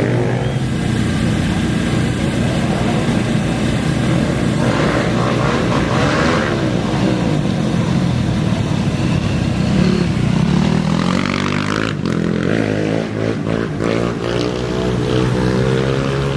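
Off-road race engines running and revving at a desert race start line, with rising pitch in the second half as a machine accelerates away.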